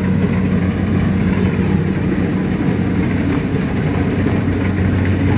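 Diesel engine of a heavy farm machine running steadily under load, a constant low drone with no change in speed.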